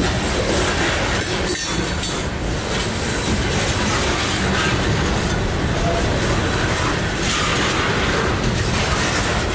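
Loaded coal hopper cars of a freight train rolling past at close range: a steady heavy rumble and clatter of wheels over the rail, with a few brief, faint wheel squeals.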